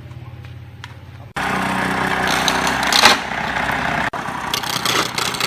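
A workshop power tool's motor running with a steady hum, then a much louder, harsher machine noise that starts abruptly about a second in and keeps going.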